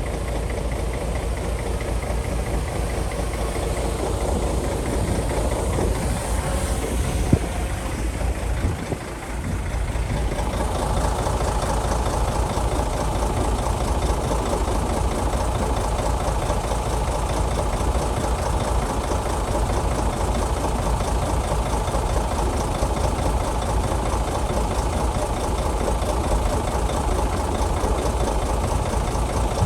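Shantui bulldozer's diesel engine running steadily with a heavy low rumble. There is a single sharp knock about seven seconds in and a brief dip in the sound near nine seconds; after that the engine runs on with a fuller, harsher tone.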